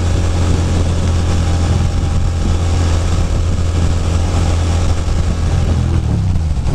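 Ducati Monster 620's air-cooled L-twin engine running steadily at highway cruise, heard over a steady hiss. Near the end its pitch falls as the revs drop.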